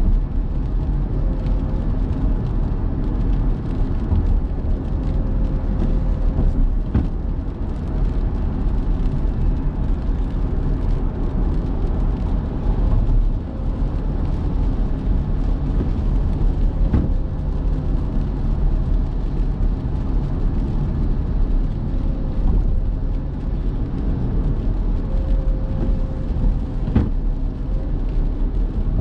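A car driving, with the steady low rumble of engine and tyre noise and a few sharp knocks.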